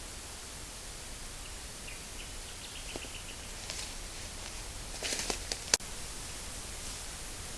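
Hissy outdoor field recording: a short run of high, evenly repeated chirps, then a brief rustle and a few sharp cracks, the loudest a single snap near the end.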